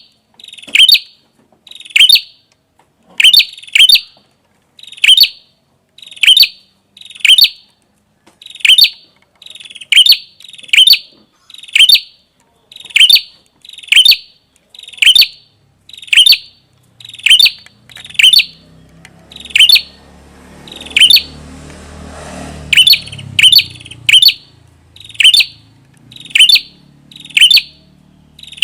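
Prenjak kepala merah, a small songbird, calling over and over with short, sharp chip notes about once a second, sometimes in quick pairs. A low rumble rises and fades in the background about two-thirds of the way through.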